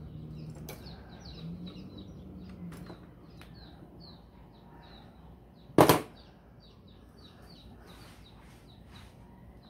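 Small birds chirping in the background, quick high chirps repeating throughout. About six seconds in, one sharp click, the loudest sound here.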